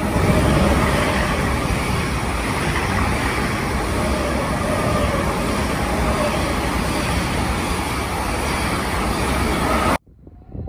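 A long electric passenger train passing close by at speed: a steady, loud rumble and rush of wheels on rail. It cuts off suddenly near the end, leaving only a much quieter background.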